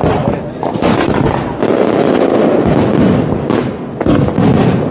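Large fireworks display: a dense, continuous barrage of overlapping shell bursts and crackle, with fresh loud bangs breaking through every second or so.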